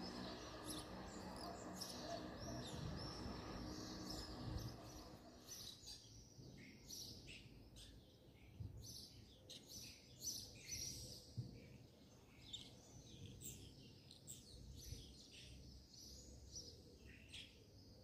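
Small birds chirping and twittering faintly: many short, high chirps in quick, irregular runs. A low steady hum sits under the first six seconds, then drops away.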